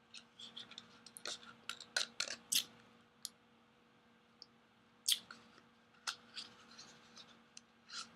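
A spoon scraping and clicking against the bottom of a pudding cup, a quick run of scrapes in the first few seconds and then single ones every second or so, as the last of the pudding is scooped out.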